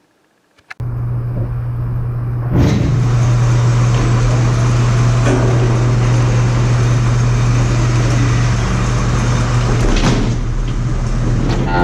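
Diesel engine running steadily; it starts suddenly about a second in. A broad rushing noise joins about two and a half seconds in.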